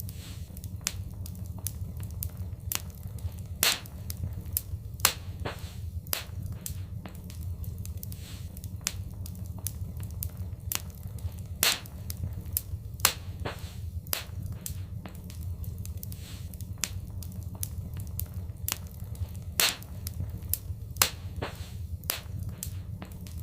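Wood fire in a fireplace crackling and popping at irregular intervals over a steady low rumble, with a few louder pops.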